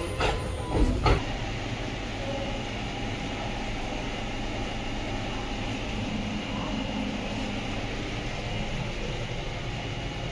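Indian Railways ICF passenger coach running on the track: two sharp knocks in the first second, then a steady rumble.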